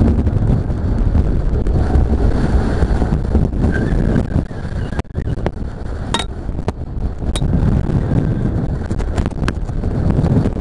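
Strong wind buffeting the microphone of a camera hanging from a kite, a loud, dense rumble that eases briefly about halfway through. A few sharp clicks and knocks from the swinging camera rig come in the second half.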